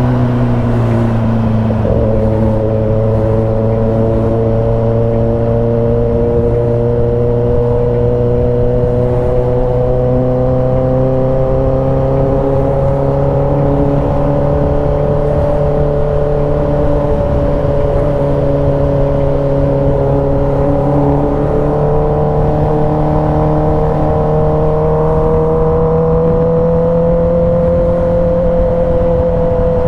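A motor or engine running steadily, its pitch drifting slowly up and down.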